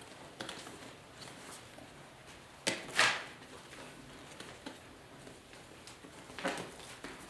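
Hand-work noises of a new vinyl cover being fitted to a motorcycle seat pan: quiet handling with scattered clicks, two sharp clacks close together about three seconds in and another sharp knock near the end.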